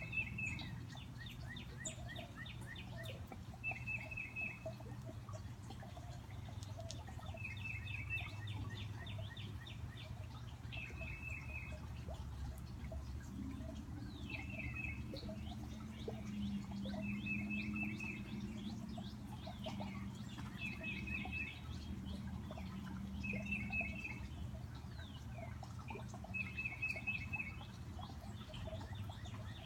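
A titmouse singing the same short, quick phrase of repeated notes over and over, about every three seconds, over a steady low rush from a backyard fountain.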